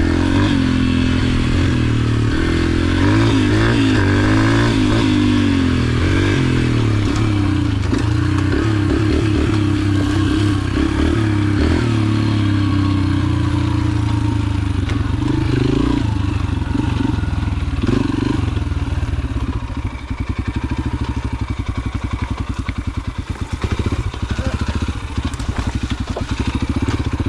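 Yamaha TT-R125 pit bike's single-cylinder four-stroke engine running under way, its pitch rising and falling with the throttle. From about two-thirds of the way through it drops to a slower, pulsing beat.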